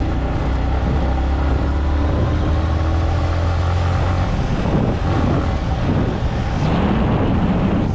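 Motorcycle engine running with a steady low hum, then revving up and down in the second half.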